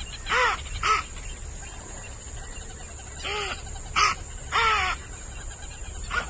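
A bird calling about six times in short, arched calls, some in quick pairs, over steady background hiss.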